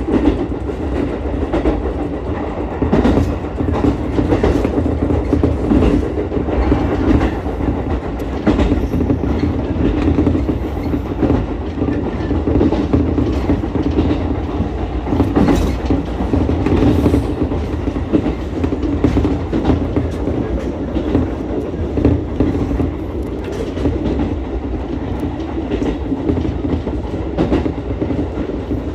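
Ichibata Electric Railway 7000-series electric railcar running along the line, with a steady rumble of wheels and running gear and scattered clicks as the wheels pass over rail joints.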